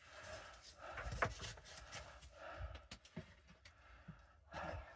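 Faint breathing and panting with scattered scuffs and knocks as a person clambers up out of a cramped tunnel.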